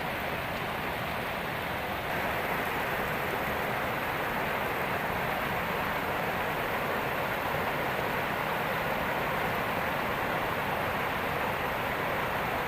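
Heavy rain pouring down in a steady hiss, growing a little louder about two seconds in.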